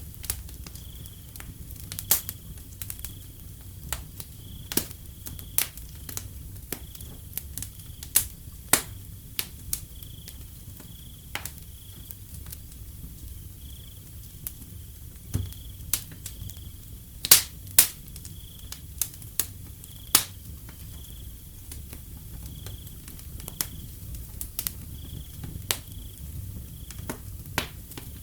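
Wood fire crackling with irregular sharp pops over a low steady rumble, a couple of the pops much louder than the rest. A cricket chirps faintly and steadily about once a second behind it.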